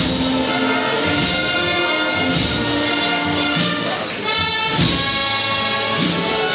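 Brass band music with long held notes.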